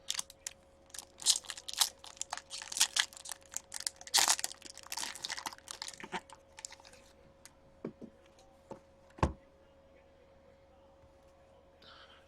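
Trading card pack being torn open, its wrapper crinkling and tearing for about seven seconds, then a few light clicks and one sharp knock about nine seconds in.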